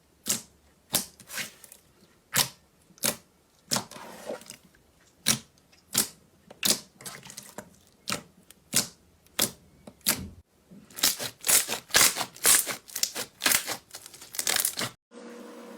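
Slime being pressed and poked, giving sharp clicking pops about one to two a second, then a quicker run of pops. Near the end the pops cut off suddenly and a steady low hum takes over.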